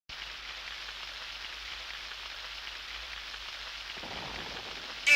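Steady rain falling: an even hiss of many drops, with no thunder and no other distinct events.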